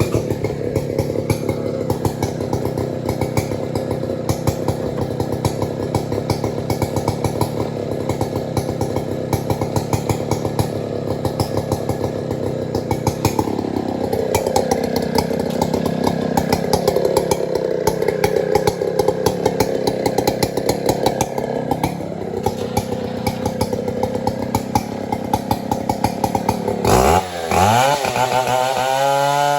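Stihl 070 two-stroke chainsaw running steadily. Its pitch sags for several seconds around the middle, then it revs up sharply near the end and holds a higher pitch.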